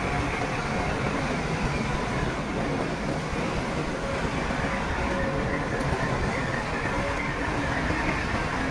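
Shantui crawler bulldozer's diesel engine running steadily under work, a continuous mechanical drone with faint steady tones.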